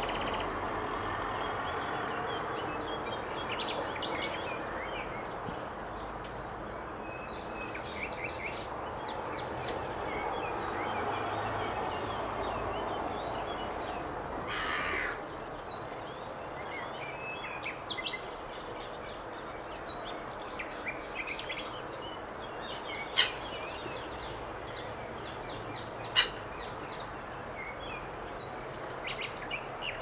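Scattered short, harsh bird calls over a steady background rumble. A brief hiss comes about halfway through, and two sharp clicks about three seconds apart come in the second half.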